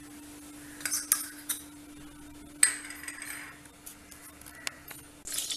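A metal spoon clinking and tapping against a cooking pan a few times while butter is added, the loudest clink a little over two and a half seconds in. A steady low hum runs underneath, and frying sizzle starts near the end.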